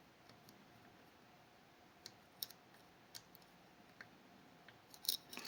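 Faint, sparse light clicks of a lock pick probing the levers inside a Fichet 484 lever sidebar lock: single ticks spaced a second or so apart, with a quick cluster near the end.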